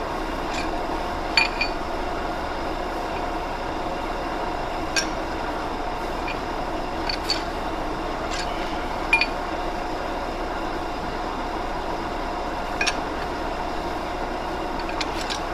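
Lathe running steadily with a heavy steel shaft turning in a steady rest, a constant machine hum with a few steady tones, broken by about a dozen light, irregular metallic clicks.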